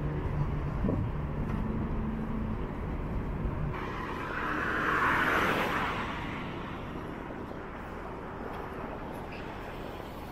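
Road traffic running steadily, with a low engine hum early on and one vehicle passing close by, its noise swelling and fading about four to six seconds in.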